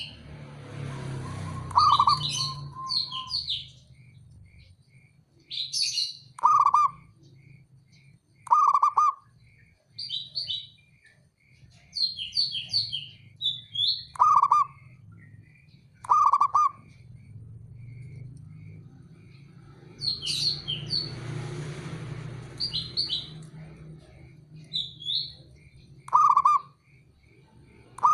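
Zebra dove (perkutut) calling, its short loud cooing notes coming every few seconds, with other small birds chirping higher above it.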